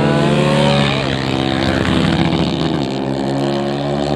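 Tuned motorcycle engines running, several engine tones overlapping, their pitch wavering and gliding slightly with the throttle.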